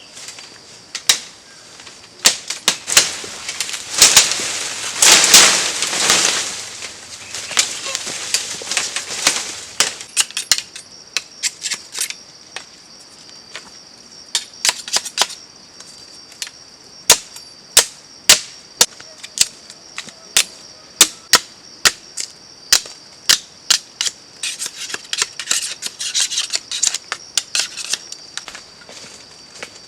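Irregular sharp snaps and knocks, dozens of them, with a denser burst of crackling and rustling a few seconds in. A steady high-pitched buzz runs underneath.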